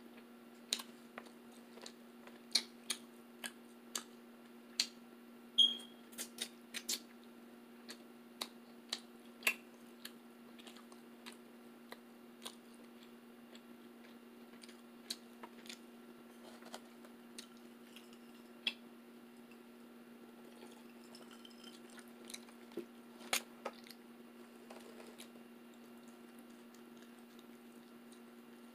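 A person chewing food close to the microphone, with mouth smacks and food-handling sounds: many short sharp clicks, thick in the first ten seconds and sparser later, with a brief squeak about six seconds in. A steady low hum runs underneath.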